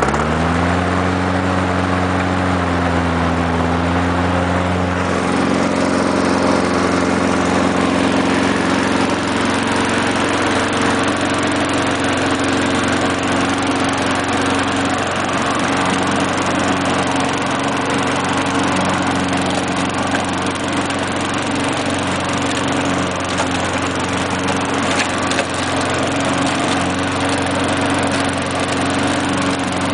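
1993 Briggs & Stratton 3.5 HP single-cylinder engine on a push mower running steadily right after a hard cold start. Its speed climbs in the first second and steps up about five seconds in, then holds. The owner blames old gas for the stubborn start.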